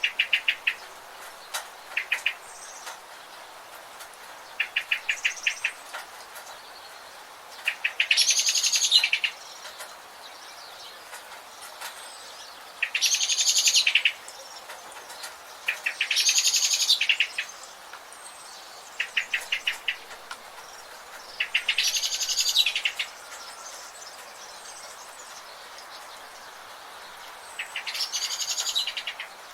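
Wild birds singing: short rapid trills alternate with longer, louder, higher trilled phrases about every three to five seconds, over a steady background hiss.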